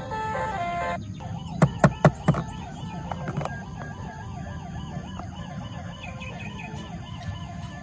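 Music stops about a second in and a few sharp clacks follow. Then an electronic siren warbles quickly up and down.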